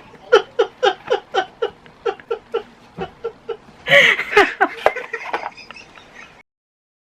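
A woman laughing in a long run of short, even 'ha' pulses, about four a second, breaking into a louder burst of laughter about four seconds in, then trailing off; the sound cuts off abruptly near the end.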